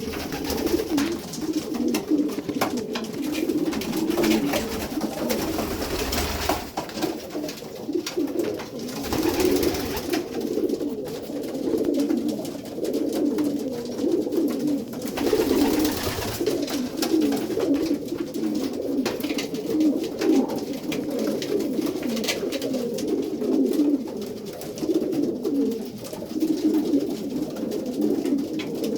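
A loft full of racing pigeons cooing continuously, many birds overlapping in a low, throbbing chorus: cocks courting the hens just let in with them. Scattered clicks and a few brief rustling swells run through it.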